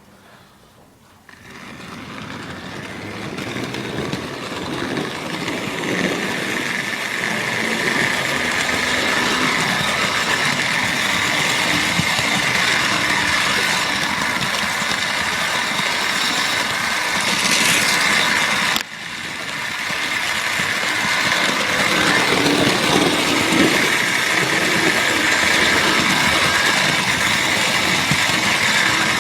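Model train running along the track, picked up close-up by a phone riding on a flatbed wagon: a steady rumble and whirr of wheels and motor. It starts about a second in, grows louder over a few seconds and then runs evenly, with a sudden brief break about two-thirds of the way through.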